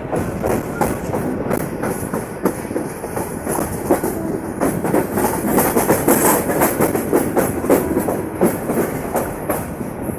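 Bangladesh Railway passenger train running along the track, its wheels clattering on the rails with many sharp rattles and knocks.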